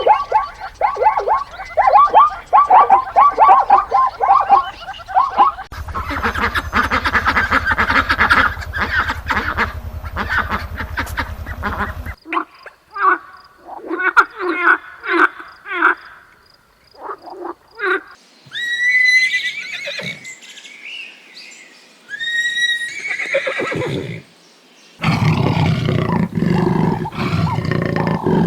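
A string of different animal calls in short segments that change abruptly every few seconds: rapid repeated calls, then spaced short calls, high chirping calls, and a deeper, denser call near the end.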